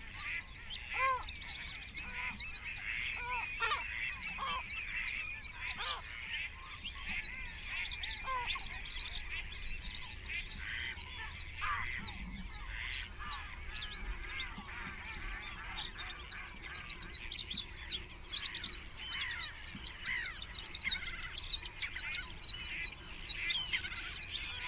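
Many birds calling at once, a flock's dense chorus of overlapping short chirps and calls, with a few lower calls in the first half.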